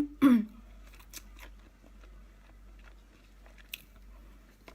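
A person biting and chewing a roast chicken rack, with scattered crunches of the bony pieces. There is a short, loud mouth sound with a falling pitch at the start.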